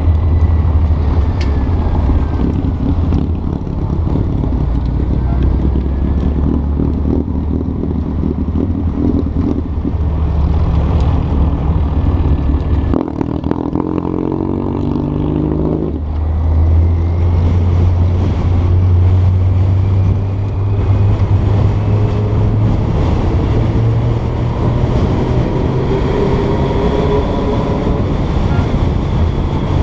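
Porsche 912's air-cooled flat-four engine running steadily. About halfway through its pitch climbs for a few seconds, then drops back, and near the end it rises slowly again.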